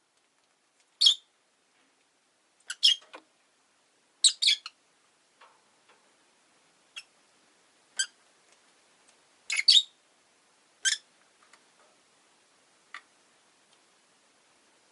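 Rosy-faced lovebirds giving short, sharp, high chirps, singly and in quick pairs every second or two, with quiet gaps between.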